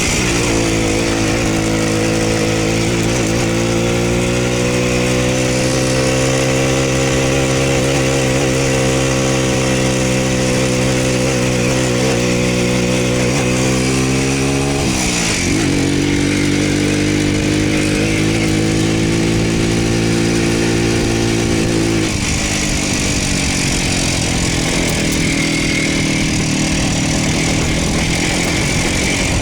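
Voskhod motorcycle's two-stroke single-cylinder engine running under way at a steady speed. Its note drops sharply about halfway through, climbs back, and changes again some seven seconds later.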